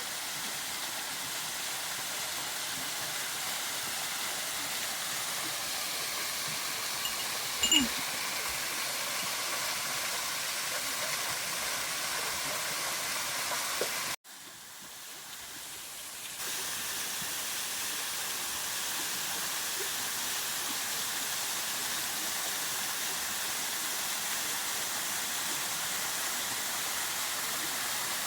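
Steady rushing of a waterfall. It briefly drops out about halfway through, comes back softer and returns to full level about two seconds later. A short, louder sound stands out a little before the midpoint.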